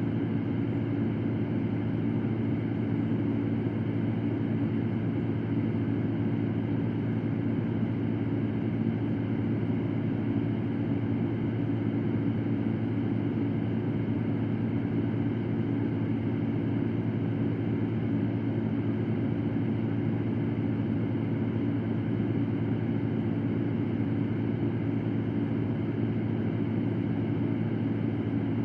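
Electric fan running steadily: an unchanging airy rush with a low hum, most of its weight in the low range.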